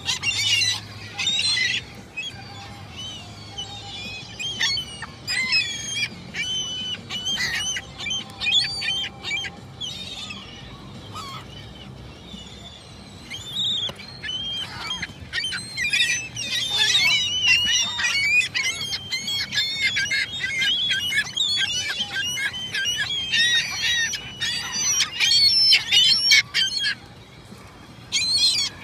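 A flock of gulls calling: many short, overlapping squawking calls, thinner for a few seconds in the middle and densest in the second half, dropping off just before the end.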